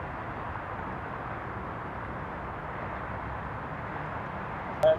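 Steady hiss from a dispatch scanner radio between transmissions. Near the end comes one short, loud click with a brief tone as the radio keys up.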